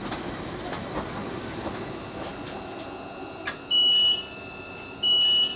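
Class 458 electric train heard from inside the carriage, running and slowing as it draws into a station, with a few sharp clicks from the wheels. From about two-thirds of the way in, a high electronic beep sounds twice, each about half a second long and a little over a second apart: the warning tone that sounds as the doors are released at the stop.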